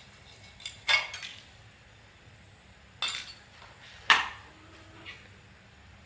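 Metal parts or tools clinking: a few sharp knocks, each with a brief ring, the loudest about a second in and about four seconds in.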